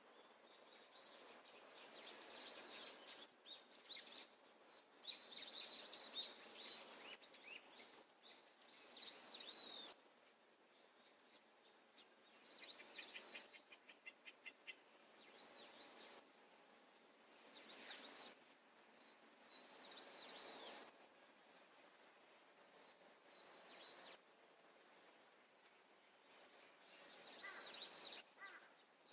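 Faint songbird calls: short high chirps repeating on and off, with a fast trill a little before the middle and a burst of calls near the end.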